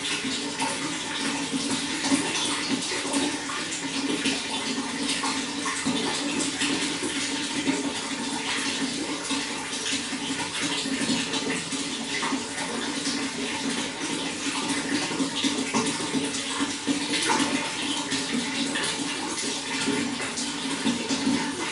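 Running water flowing and splashing steadily, a continuous rushing with many small splashes.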